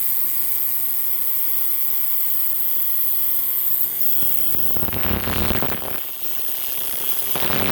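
Electric tattoo machine running off a wireless power supply, with a steady buzzing hum. A bit past halfway the even hum gives way to a rougher rattling buzz, in two stretches.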